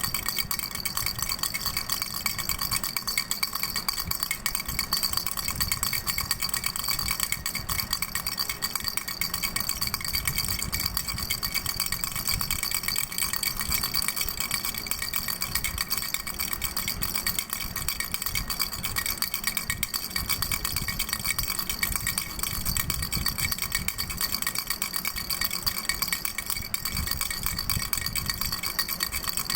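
Doraemon baby rattle shaken continuously, a fast, even rattle with a steady high ringing running through it.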